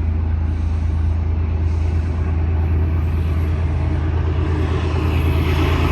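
Diesel locomotives of an approaching freight train, a steady low engine drone with rumble that grows louder and brighter near the end as the train draws closer.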